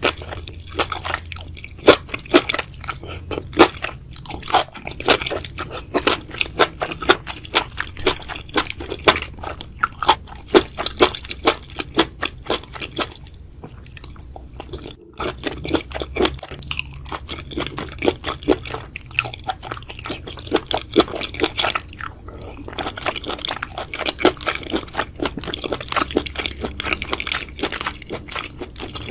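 Close-miked eating: a person chewing and crunching food, with many quick, irregular clicks and wet mouth sounds and a short pause about halfway through.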